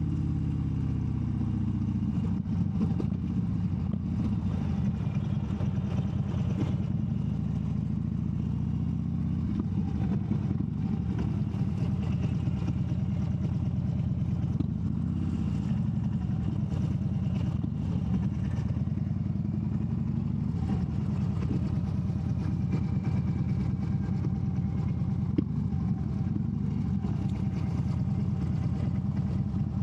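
Harley-Davidson V-twin motorcycle engine running on the road. Its pitch falls over the first couple of seconds, then it runs steadily.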